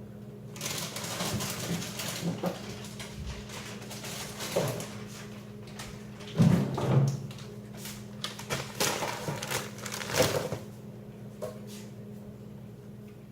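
Plastic packaging of frozen food rustling and crinkling as it is handled, in irregular bursts with a few knocks for about ten seconds, loudest just past the middle. A steady low hum runs underneath.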